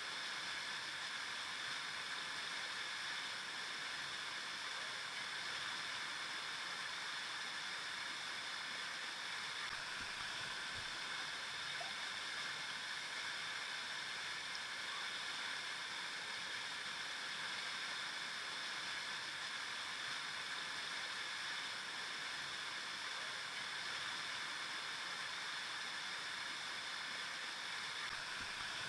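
River water flowing and gurgling as a steady, even rush, strongest in the upper-middle range.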